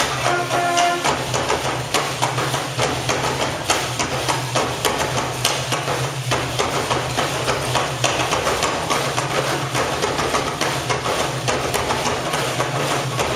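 Dense, irregular percussive tapping and knocking, many strikes a second, over a low steady hum. Pitched music cuts off about a second in.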